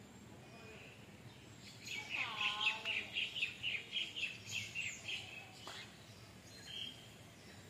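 A bird calling a quick series of about a dozen repeated high notes, roughly four a second, lasting about three seconds, then one short chirp near the end.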